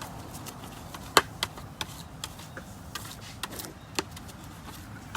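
Scotch-Brite scouring pad scrubbing cleaner into a dirt bike helmet shell: scattered scratches and clicks, with a sharp tap about a second in and another about four seconds in.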